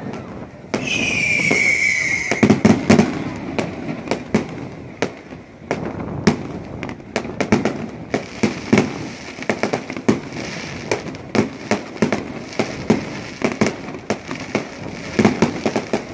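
Fireworks display: aerial shells bursting in a dense run of sharp bangs and crackles, with heavier booms mixed in. About a second in, a whistling firework sounds as one tone falling in pitch for a second and a half.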